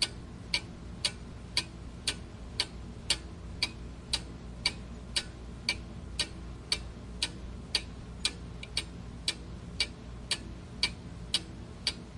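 Clock ticking steadily, about two ticks a second, over a faint steady hum.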